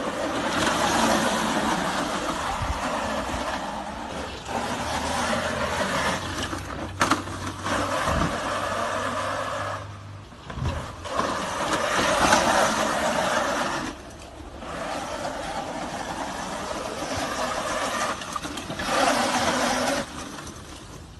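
Mini bike's small engine running hard, revving up and easing off several times with short dips in between as the bike rides the track.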